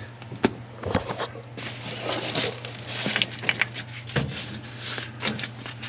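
Rustling and crinkling of taped-down trunk floor insulation being handled, with irregular crackles and a few sharper clicks over a steady low hum.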